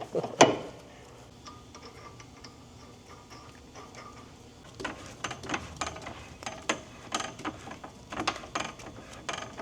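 Hand tools working on metal car parts: one sharp click, then after a quiet stretch a run of irregular metallic clicks and taps, a few a second.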